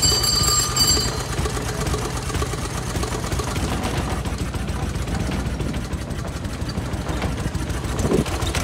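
Single-cylinder-era veteran car engine running at idle with a fast, steady chugging. A brief high metallic ringing sounds in the first second.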